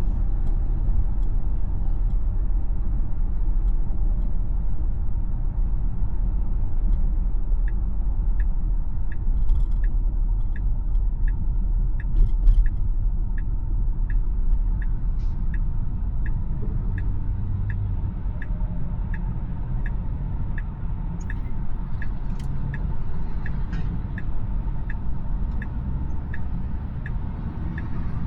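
Tesla cabin with steady tyre and road rumble while driving. About eight seconds in, the turn-signal indicator starts ticking evenly, a little under twice a second, and keeps going.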